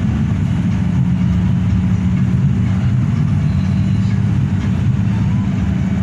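Hino RK8 bus underway: a steady low engine drone mixed with road rumble.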